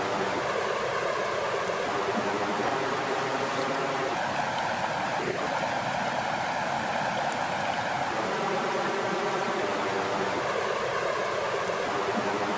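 Steady rush of flowing water along a lakeshore, an even, unbroken wash of water sound.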